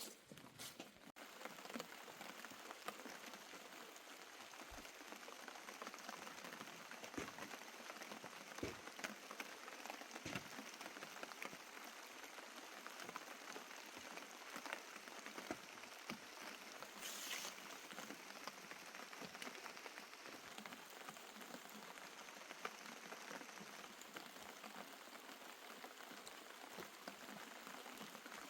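Steady rain falling and pattering on surfaces, a faint even hiss dotted with small drop ticks.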